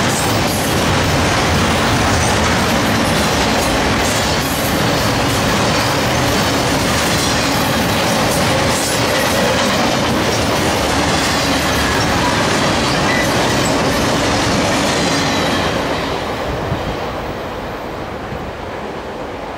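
Flatcars of a Canadian Pacific Expressway intermodal train loaded with highway trailers rolling past, their wheels rumbling and clacking on the rails. The last car passes about three-quarters of the way in, and the sound fades as the train moves off.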